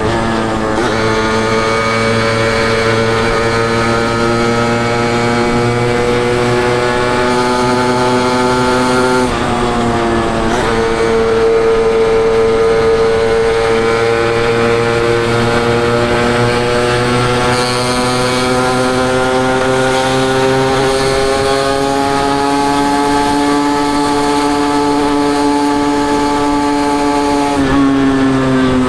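Suzuki WOLF125 two-stroke single-cylinder motorcycle exhaust while riding, the revs climbing slowly in each gear and dropping sharply at gear changes about a second in, around ten seconds in, and near the end.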